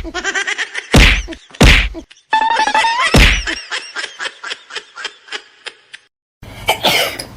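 A few loud whacks, each with a ringing pitched tone, followed by a run of quick taps about four a second that fade away.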